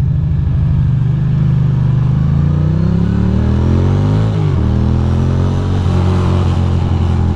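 Ducati Monster 620's air-cooled V-twin engine pulling away: steady for about a second, then rising in pitch as it accelerates, dropping sharply at an upshift about four seconds in and climbing again.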